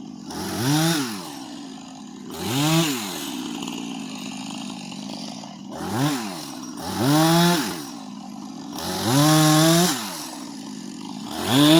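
Chainsaw throttled up and let back down to idle five times, the pitch rising and falling each time; the last rev is held for about a second.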